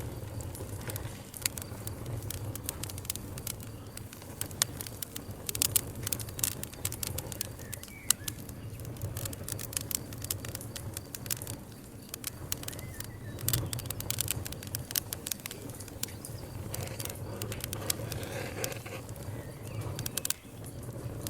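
Wood campfire crackling, with irregular sharp pops and snaps, thickest in two clusters, over a steady low rumble.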